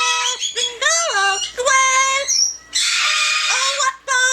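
Yellow-naped amazon parrot vocalizing in a high, speech-like voice with gliding, rising-and-falling calls. A harsh squawk comes about three seconds in.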